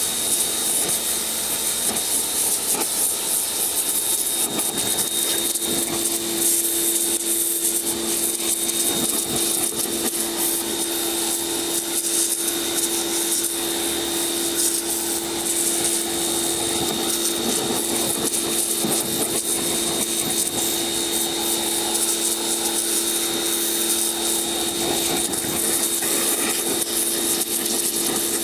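Electric pressure washer running steadily, its motor and pump humming under the hiss of the water jet, cleaning caked-on brake dust off an alloy wheel.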